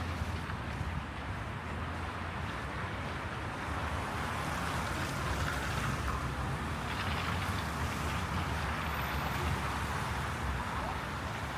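Steady city traffic noise of cars on snow-covered roads: a continuous low rumble with a hiss over it.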